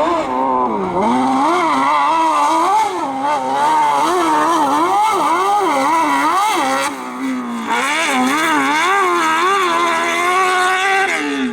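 A competition engine revving hard, its pitch swinging up and down quickly and over and over as it is driven through a slalom, with a brief lift off the throttle about seven seconds in.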